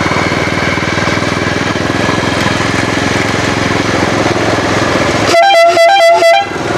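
Small engine of a homemade bed-car running steadily while driven, then a vehicle horn sounded in several short beeps in quick succession near the end.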